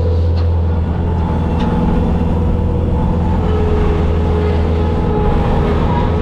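Bobcat skid steer's diesel engine running steadily under work, a loud even rumble with a thin higher whine above it that shifts a little in pitch.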